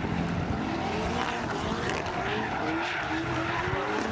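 Four-wheel-drive Mitsubishi Lancer Evolution's turbocharged four-cylinder engine revving hard while the car spins donuts, its note rising over and over in climbs about a second apart. Spinning tyres screech under it.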